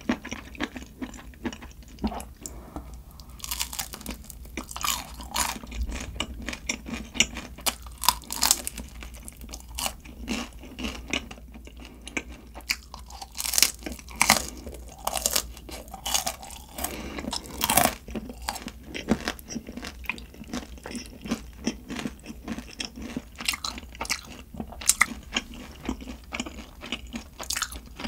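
Close-miked chewing of crunchy food: irregular crisp crunches and bites throughout.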